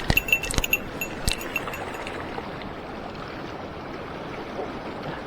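Mountain stream flowing steadily. In the first second and a half a quick run of small sharp metallic clicks with a faint ring sounds over it, then only the water.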